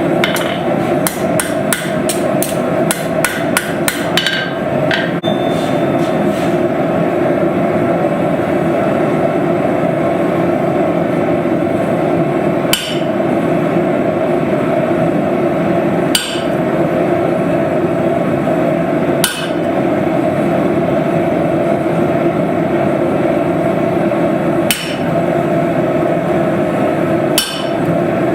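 Hammer blows on steel while forging a knife: a quick run of strikes, about three or four a second, for the first four seconds or so, then five single blows at long gaps. A steady rushing noise runs under it all.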